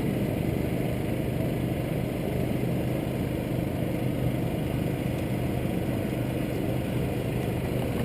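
Pit bike engines idling steadily, with no revving.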